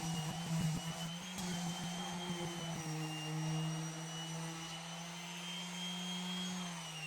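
Cordless stick vacuum motor running steadily with a high whine, then switched off near the end, its pitch falling as the fan spins down.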